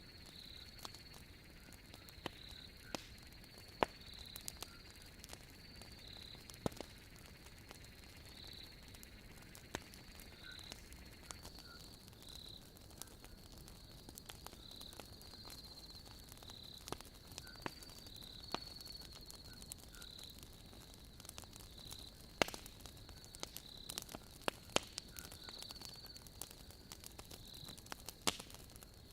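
Wood fire crackling, with scattered sharp pops from the burning logs, over a steady high-pitched chirping of night insects that repeats throughout.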